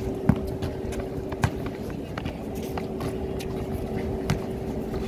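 Basketball game sounds: a few sharp thumps of the ball on the court, about a second apart and then a few seconds later, among many lighter taps and clicks of play, over a steady hum.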